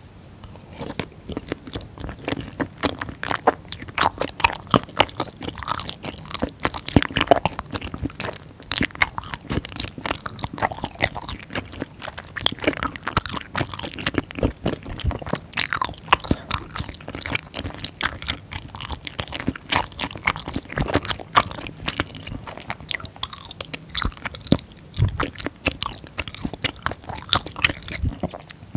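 Close-miked chewing of a mouthful of tteokbokki in spicy sauce, with a steady stream of wet, sticky mouth clicks and smacks. The chewing stops just before the end.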